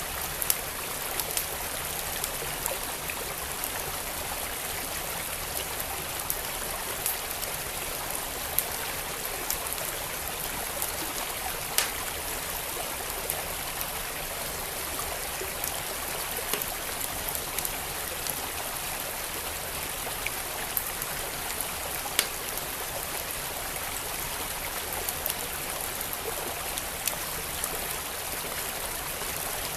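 Wood fire in a fireplace crackling with scattered sharp pops, a few of them louder, over the steady rushing of a flowing stream.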